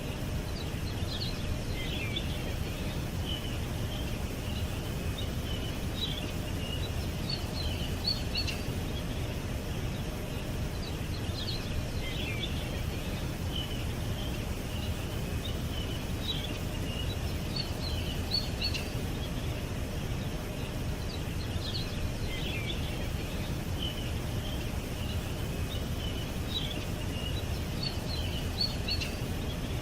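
Small songbirds chirping and twittering in short high phrases, with a similar burst of calls coming back roughly every ten seconds, over a steady low background rumble.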